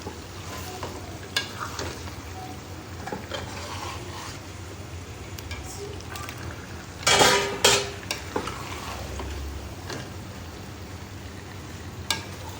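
Chicken curry frying in oil in a wok while a metal spoon stirs and scrapes it, with a steady sizzle and scattered light clicks. About seven seconds in, the spoon strikes the wok twice with loud, short ringing clangs.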